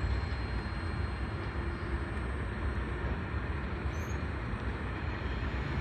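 Steady low rumble and hiss of a freight train rolling on, with no horn, squeal or distinct clanks.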